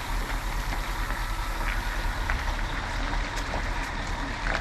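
Truck running with a steady low rumble of engine and road noise, a few faint clicks over it.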